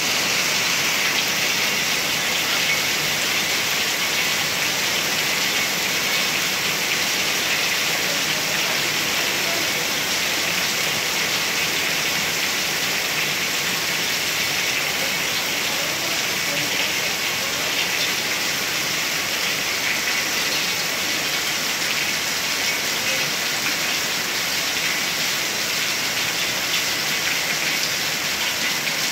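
Heavy rain falling steadily: a dense, even hiss of drops striking roofs, pavement and a wet concrete balcony.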